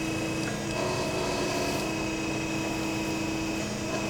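Harig EZ-Surf CNC surface grinder running, with a steady hum from the spindle and hydraulic table drive. Over it a steady motor tone from an axis being jogged cuts out and comes back twice.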